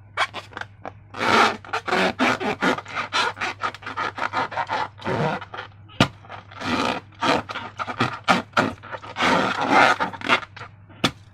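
Slime being worked by hand: a fast, irregular run of sticky crackles and scrapes, with a sharp click about six seconds in and another near the end.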